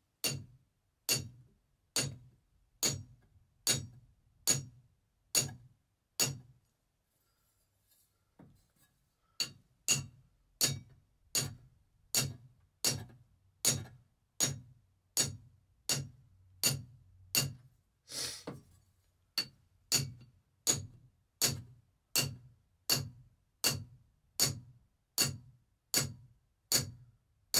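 Steady rhythmic hammering of a diamond tile saw blade's rim with a hard metal tool, about two sharp ringing metallic strikes a second, with a short pause a few seconds in. The blade is being pinged to flatten and rough up its dulled edge and bring fresh diamonds to the surface.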